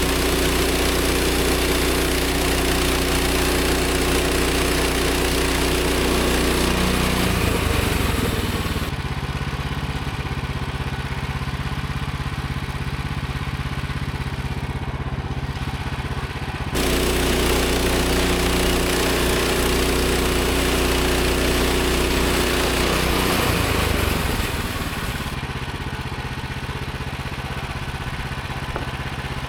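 Gas engine of a portable band sawmill running steadily, its note shifting down twice and jumping suddenly back about halfway through.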